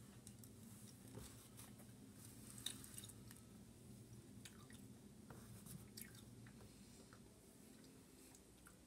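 Faint chewing of Skittles candies, with scattered small clicks of the mouth working the chewy candy.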